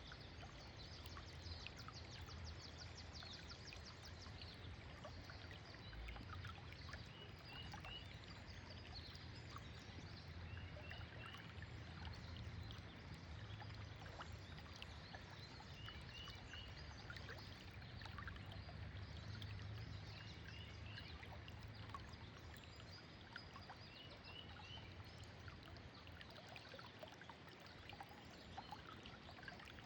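Faint, steady rush of flowing river water, with a small bird chirping in short doubled notes every few seconds and a quick high trill in the first few seconds.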